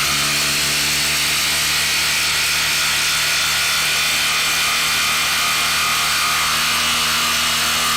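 Cordless brushless impact driver hammering a lag screw into wood at full speed with a steady rattle. It stops abruptly near the end, when the screw is driven home.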